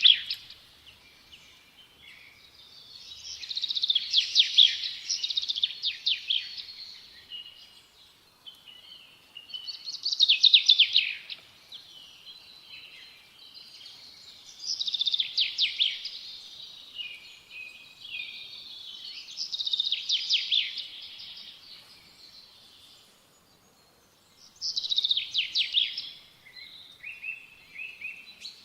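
A small songbird singing short phrases of rapid, high chirping notes, one phrase every few seconds, with brief quiet gaps between.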